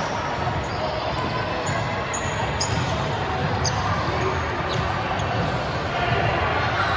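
Indoor volleyball court sounds: several short high squeaks, typical of shoes on the court floor, over a steady echoing hall din with faint voices.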